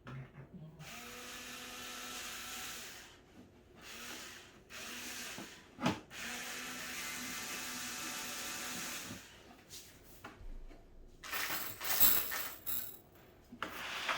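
Screws being driven into cat tower parts in several runs of one to three seconds, with a faint steady hum under each. Sharp clicks and rattles of parts being handled follow near the end.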